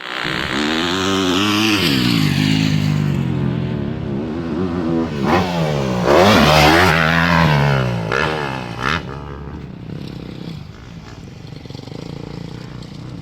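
Yamaha YZ250F four-stroke single-cylinder motocross engine revving up and down under throttle on the track. It is loudest about six to eight seconds in, then fainter toward the end.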